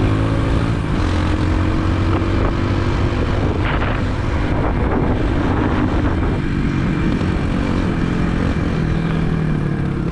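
Motorbike engine running while riding, heard from a helmet-mounted camera. The engine note rises slightly in the first second, then holds steady under a constant rush of road and air noise.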